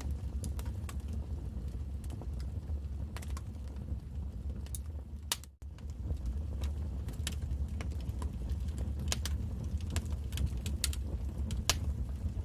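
Wood fire in a fireplace crackling: irregular sharp snaps and pops over a steady low rumble of the flames, with a momentary drop-out about halfway through.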